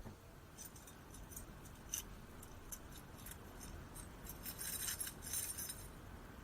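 A bunch of keys jingling faintly: scattered small metallic clinks, busiest between about four and a half and six seconds in.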